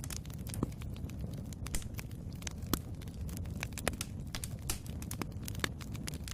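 Wood fire burning in a fireplace: a steady low rumble of flame with irregular sharp crackles and pops from the burning logs, several a second.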